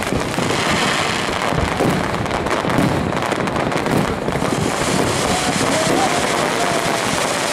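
Large fireworks display: many aerial shells bursting at once in a dense, unbroken run of bangs and crackling.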